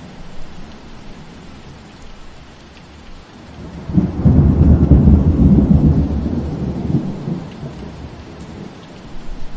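Steady rainfall with a loud, low roll of thunder that starts suddenly about four seconds in, rumbles for about three seconds and fades away.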